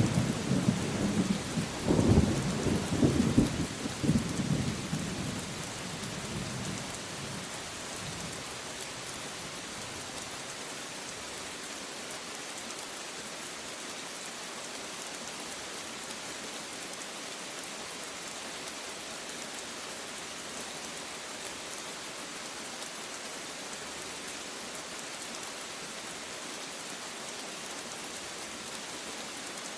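Steady rain falling, with a rumble of thunder that swells a few times over the first few seconds and dies away by about eight seconds in, leaving only the even hiss of the rain.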